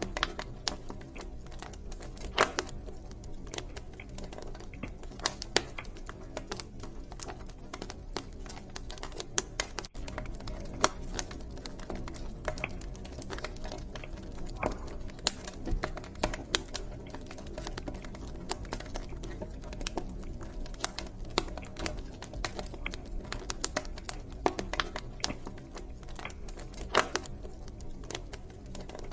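Wood fire in a fireplace crackling: irregular sharp pops and snaps, a few louder than the rest, over the steady low rush of the flames.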